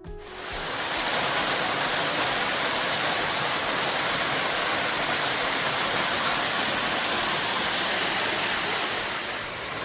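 Small waterfall pouring into a rocky stream: a steady rush of falling water that swells in over the first second.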